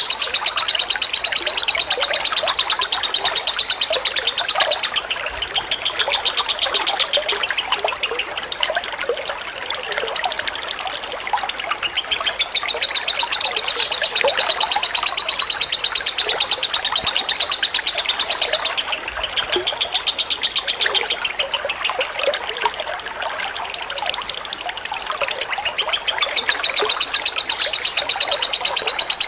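Lovebird giving its long, rapid chattering trill (the 'ngekek' call), repeated without a break and dipping slightly in pitch every few seconds, over the steady sound of trickling water.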